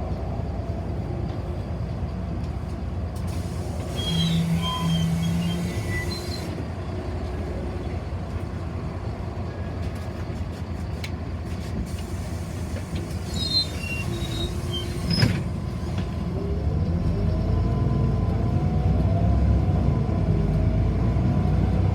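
City bus heard from inside the cabin: a steady low rumble with a few short tones and a sharp knock about two-thirds of the way through. The bus then moves off, its drive sound rising in pitch and growing louder.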